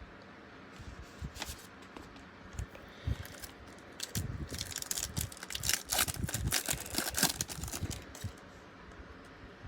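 Wrapper of a baseball card pack being torn open and crinkled by hand: a few scattered crackles at first, then a dense stretch of tearing and crinkling through the middle.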